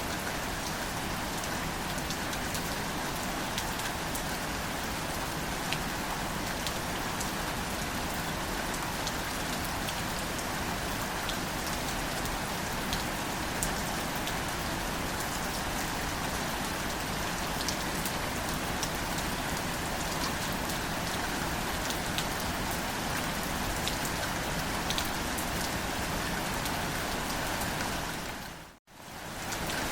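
Steady, gentle rain falling on low wildflowers and leaves, a constant hiss with single drops ticking here and there. Near the end the sound briefly fades almost to silence and comes straight back.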